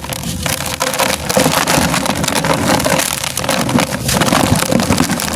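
Crunchy moulded sand-and-cement shapes being crushed and crumbled: a dense, continuous crunching and crackling of many small breaks.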